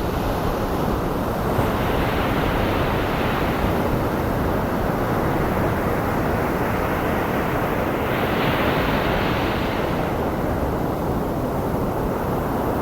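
Ocean surf blended with steady white noise, the waves swelling and easing slowly, with a brighter hiss as a wave breaks about two seconds in and again around eight seconds in.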